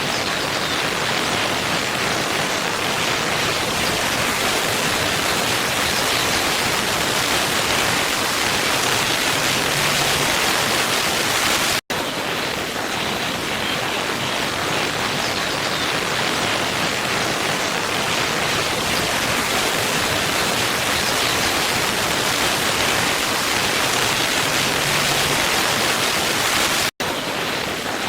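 Steady rush of a waterfall, an even hiss of falling water. It cuts out for an instant about twelve seconds in and again near the end, where the looped recording restarts.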